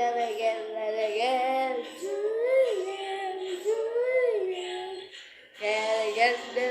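A child singing a wordless melody in drawn-out, gliding notes, with a short break about five seconds in before the singing starts again.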